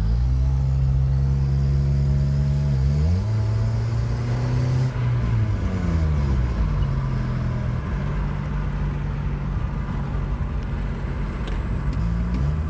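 2003 Nissan Sentra SE-R's 2.5-litre four-cylinder engine running with an exhaust leak, its engine speed held steady for a few seconds at a time and shifting a few times.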